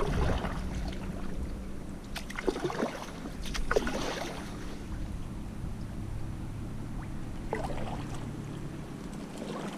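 Approaching motorboat's engine humming steadily, with a few brief water swishes from a kayak paddle as the kayak is pulled to the side.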